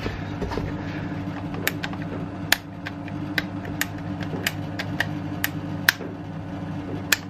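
Irregular sharp clicks and taps of tools and metal parts being handled while working on an air compressor, over a steady low electrical hum.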